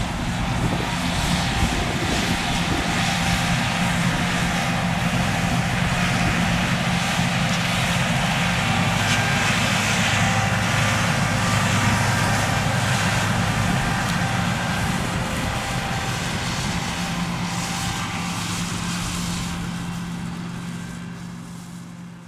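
Fendt 6275 L combine harvester running steadily, a low engine drone under a broad mechanical rush, fading away near the end.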